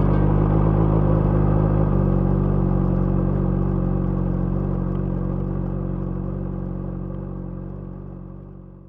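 Honda CBR600RR inline-four running at a steady engine speed through a Yoshimura aftermarket exhaust, its sound fading away gradually over the last several seconds.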